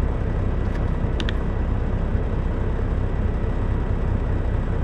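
Steady low rumble of a semi truck idling, heard from inside the cab, with a couple of light clicks about a second in.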